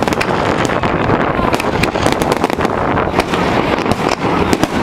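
Fireworks show: many sharp bangs and crackles in quick, uneven succession over a dense, continuous rumble.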